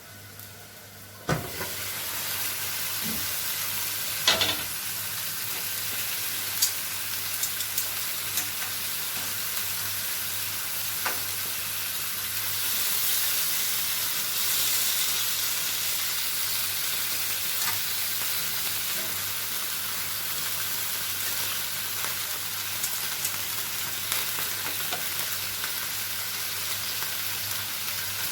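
Beef pieces frying in oil in a hot pan: a steady sizzle that starts suddenly about a second in, with scattered pops and a few sharp knocks.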